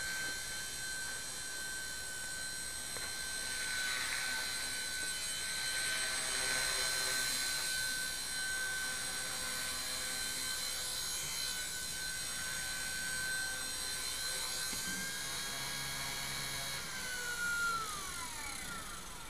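Blade mCPX micro collective-pitch RC helicopter in flight: a steady high whine of its motor and rotor. Near the end the whine drops in pitch and dies away as the rotor spools down, after the crash that ends the flight.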